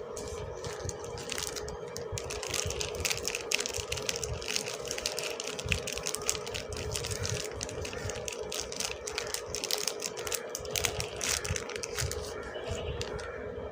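Soap packaging crinkling and crackling as it is handled and unwrapped, a dense run of small crackles and clicks that thins out near the end.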